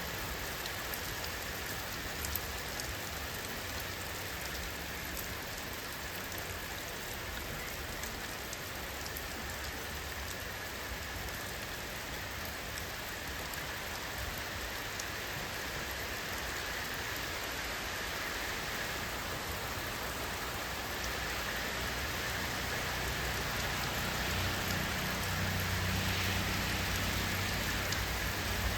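Steady rain falling, an even hiss with scattered fine drop ticks, growing slightly louder over the last few seconds.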